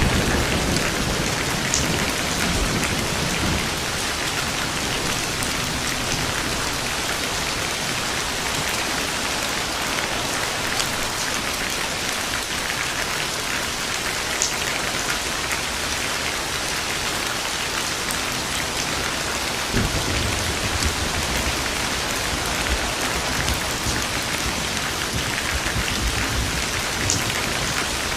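Steady rain falling, with scattered louder drops, and low rolls of thunder at the start and again about two-thirds of the way through.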